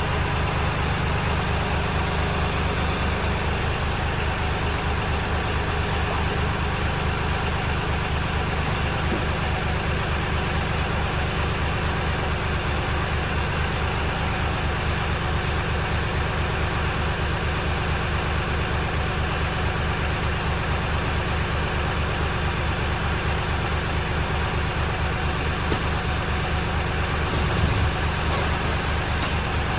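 Engine idling steadily with an even low pulsing, and a brief clatter near the end.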